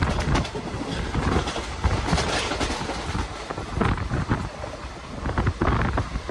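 Express passenger train running along the line: the steady rumble of wheels on the rails from inside the coach, with wind buffeting the microphone at the open window in irregular gusts.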